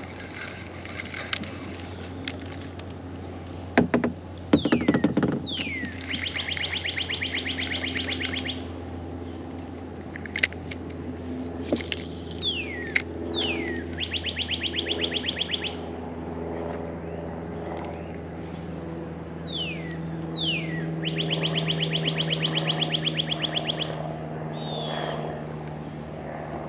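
A songbird singing the same phrase three times: two quick falling whistles, then a rapid trill lasting a couple of seconds. A steady low hum runs underneath, with a few faint clicks.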